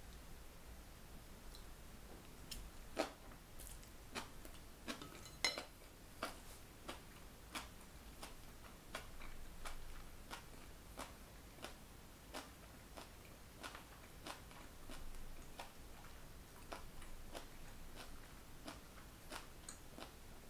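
Close-miked chewing of stir-fried mung bean sprouts and beef brisket: a run of short crisp crunching clicks, about two a second, loudest a few seconds in.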